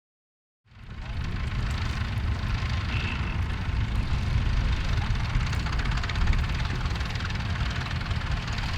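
Massey Ferguson tractor engine running steadily, with a heavy low rumble, starting abruptly a little under a second in.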